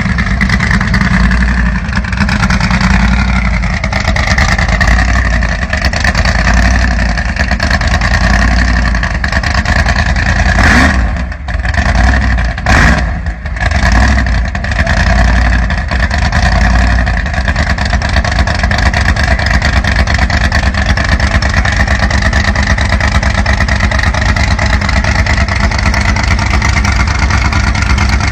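Modified Volkswagen's engine running loudly and steadily, breaking up with a dip and two sharp cracks about halfway through before settling back.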